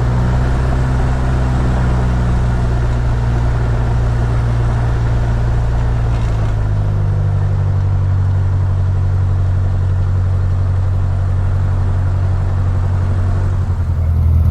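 Piper Warrior II's four-cylinder piston engine and propeller running at low power, a steady low drone. The engine note shifts about six and a half seconds in, and it grows louder just before the end.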